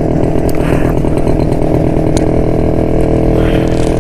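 1972 Jawa motorcycle's two-stroke engine running steadily under way, its note holding even.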